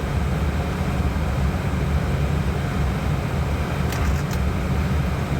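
Airliner cockpit noise during descent: a steady low rumble of airflow and engines, with a few short clicks about four seconds in.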